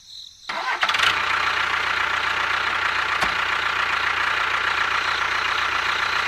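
Small tractor engine starting up about a second in and then running steadily.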